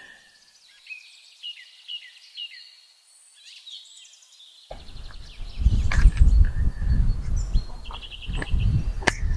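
Small birds chirping in short repeated calls. About five seconds in a loud, uneven low rumble sets in under the birdsong, with a single sharp click near the end.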